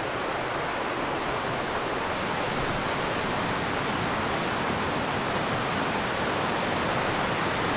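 A river rushing steadily, a constant even roar of flowing water that grows slightly louder.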